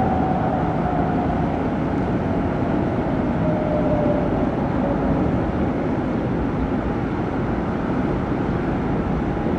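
A passing aircraft's engines: a steady, loud noise with a faint whine slowly falling in pitch.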